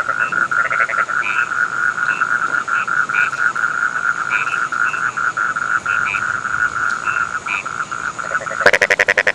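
A chorus of rice-field frogs calling: a fast, steady trill with shorter, higher croaks scattered over it. A loud call of rapid pulses, about ten a second, comes near the end.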